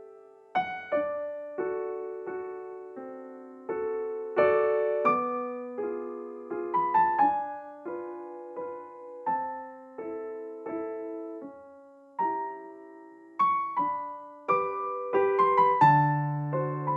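Background music: gentle solo piano, single notes and chords struck and left to fade, with a low bass note coming in near the end.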